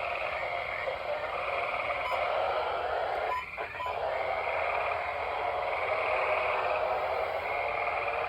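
A chorus of frogs calling outside, with high trills repeating every second or so over a dense, steady din.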